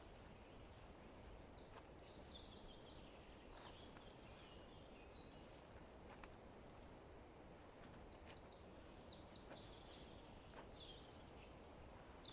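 A songbird singing faintly in short, descending trilled phrases, three times, over a steady hiss of forest background noise, with a few faint clicks in between.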